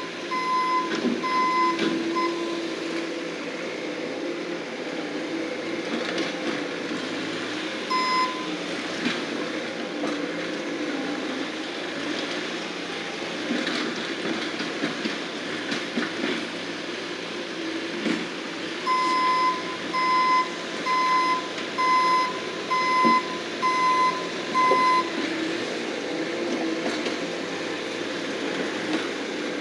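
Bobcat skid-steer loader running steadily while reversing, its backup alarm beeping about once or twice a second: a short run of beeps at the start, a single beep about eight seconds in, and a longer run of about nine beeps in the second half.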